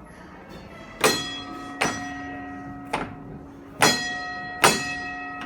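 A tram's gong bell struck five times in an uneven rhythm, each clang ringing on after the strike.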